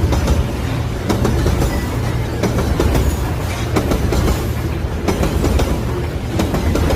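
Wagons of a long Babaranjang coal train rolling past, with a steady low rumble and repeated clacks as the wheels cross rail joints.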